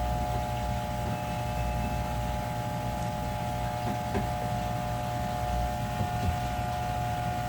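Steady machine hum with a constant high whine over it and a few faint knocks.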